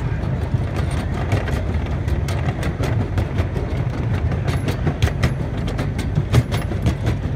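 Open passenger car of a miniature park train rolling along the track: a steady low rumble with frequent sharp clicks and clacks from the wheels and car.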